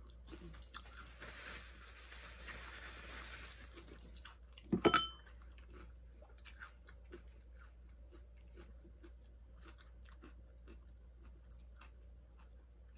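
Close-mouthed chewing of crisp fried corn tortilla from a taco and nachos, with many small crunching clicks. About five seconds in there is one short, sharp clack, the loudest sound.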